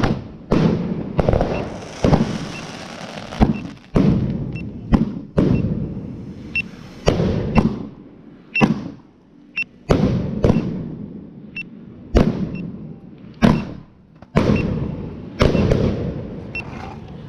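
Consumer fireworks going off in a long run of about twenty loud bangs at uneven spacing, roughly one or two a second. Each bang trails off in a low rumble.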